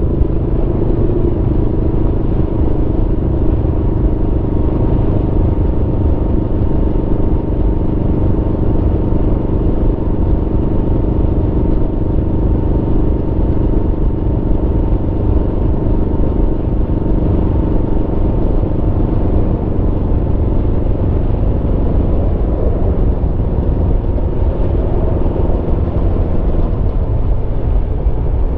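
Aprilia Tuono V4 motorcycle's V4 engine running at steady revs under way, with a deep rumble and a thin high whine holding nearly level; the revs ease off slightly near the end.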